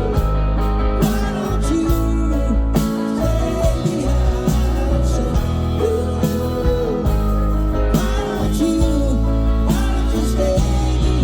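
Rock band playing live, with electric guitars, bass and drums under a sung melody.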